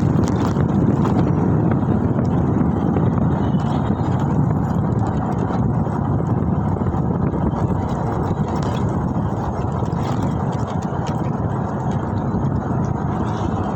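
Steady wind rush and road rumble while riding through traffic, with the rider's microphone buffeted by the air.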